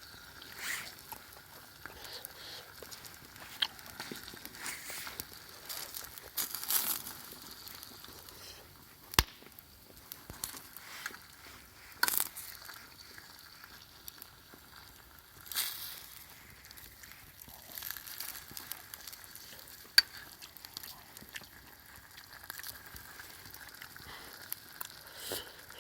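Cooking over a wood fire pit: faint crackling and sizzling, with scattered sharp pops and short hissing flares. The sharpest pops come about 9 and 20 seconds in.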